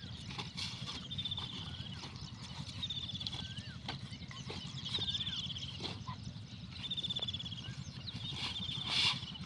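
12 hp Lister-type diesel engine running steadily to drive an irrigation water pump, a low continuous thudding. Over it, a bird repeats a short high trill every second or two.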